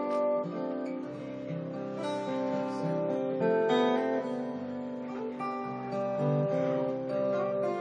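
Solo acoustic guitar played fingerstyle, a slow melodic instrumental with notes ringing over one another, on old strings that may be a little out of tune.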